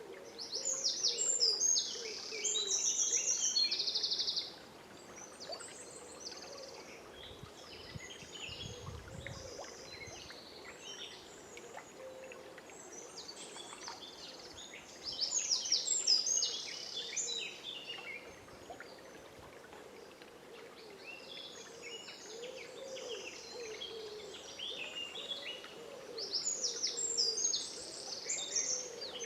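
Dawn chorus of songbirds in a forest, several birds singing in overlapping bursts of high, quick phrases. The loudest bursts come about a second in (with a fast trill), around the middle, and near the end, with lower curving calls beneath. A faint steady rush of the river runs under them.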